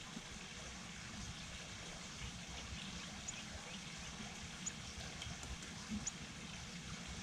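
Light rain trickling and dripping, a faint steady wash, with a few short high chips spaced a second or more apart.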